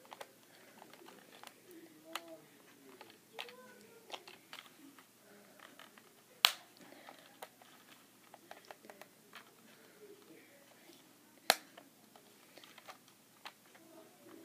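Small clicks and taps from handling model railway pieces, with two sharp, louder clicks about five seconds apart.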